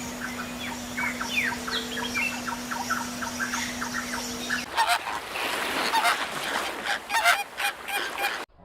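A flock of birds calling: many short, overlapping calls over a steady low hum. A little past halfway the hum stops and a quick run of sharp clicks and rustles takes over, which cuts off suddenly near the end.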